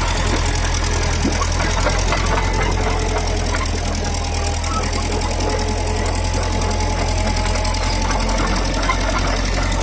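Caterpillar D4D crawler dozer's diesel engine running steadily, with a constant low drone and a dense fine mechanical clatter over it.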